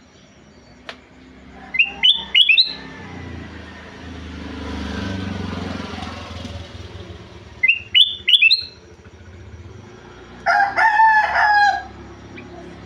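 Kutilang emas bulbul singing: two short phrases of three or four quick rising whistled notes, about six seconds apart. A louder, longer call with several pitches comes near the end, and a low rumble swells and fades in the middle.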